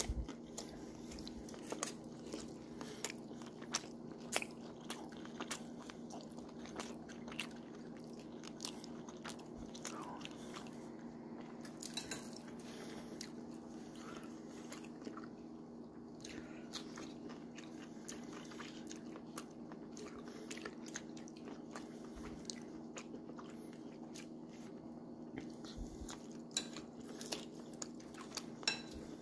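A person biting and chewing crunchy food, with scattered short crunches and clicks, over a steady low hum.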